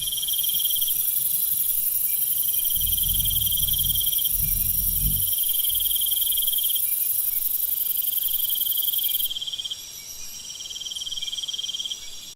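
Night-time jungle insect chorus: a dense high-pitched buzzing that cuts out about nine seconds in, over a lower trill repeating in phrases of about two seconds. A brief low rumble sounds underneath a few seconds in.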